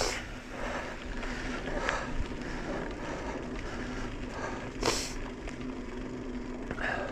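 Bicycle rolling along a dirt trail: steady tyre and drivetrain noise with light rattles, and one sharp clack about five seconds in.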